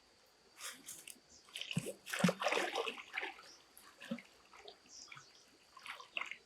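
Water splashing and sloshing in short irregular bursts, the loudest about two seconds in.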